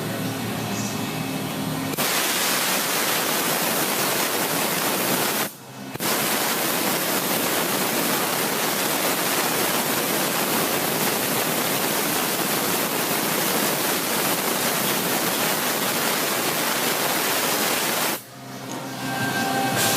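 Hitachi Seiki HiCell 23SII CNC lathe running with a steady, loud rushing hiss, like coolant spray or air inside the machine enclosure. It starts abruptly about two seconds in, cuts out briefly around five and a half seconds, and stops near the end.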